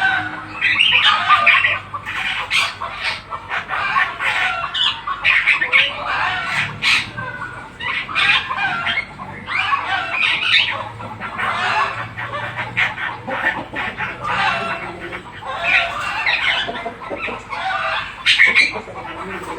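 Javan myna calling without a break: a dense, loud run of harsh, varied chattering and squawking calls, with many sharp clicks among them.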